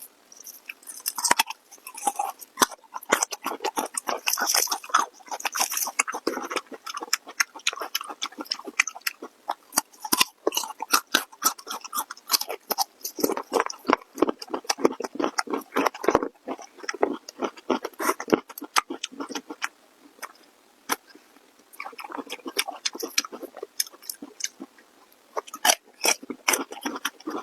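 Close-miked eating: a person biting and chewing food with dense, rapid wet clicks and smacks of the mouth, pausing briefly a couple of times.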